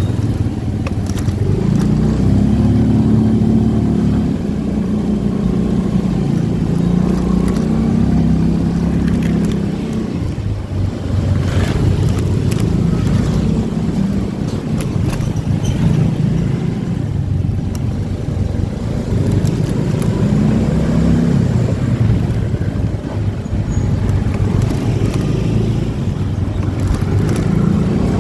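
Motorcycle engine running while riding, its pitch rising and falling several times as the throttle opens and closes, with wind and road rumble and a few short knocks.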